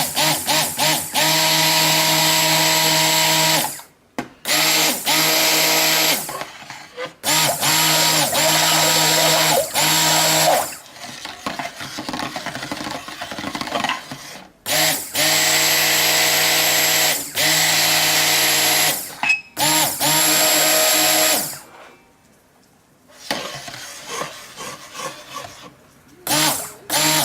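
Electric stick blender running in soap batter, switched on and off in bursts of one to seven seconds with short pauses, to bring the oils and lye solution to a thick trace.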